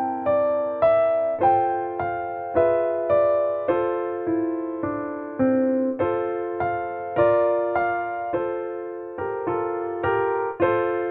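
Background music: a keyboard or electric piano playing a gentle, even pattern of notes, about two a second, each note fading after it is struck.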